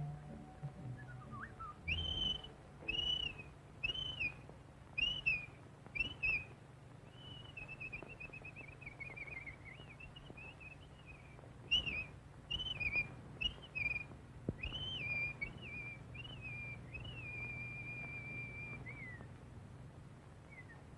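Cartoon bird calls whistled as short arched notes, about one a second, then a warbling run, then more short whistles ending in a long held note that drops off near the end.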